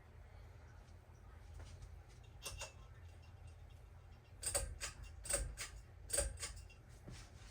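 Emerson Pro Series ceiling fan running, with a steady low hum and several sharp ticks or creaks, mostly in the second half and about a second apart.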